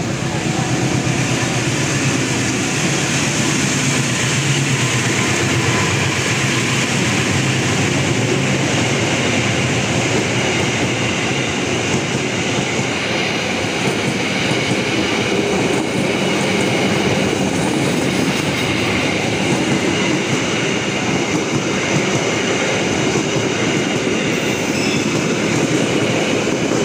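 A passenger train hauled by a diesel-electric locomotive running through the station, its cars passing close by. There is a steady rumble of wheels on rail with clickety-clack.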